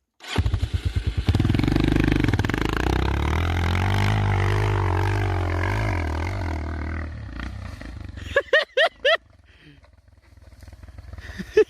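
Motorcycle engine revving loudly with a wavering pitch for about seven seconds, then dying away. Near the end come four quick high-pitched bursts.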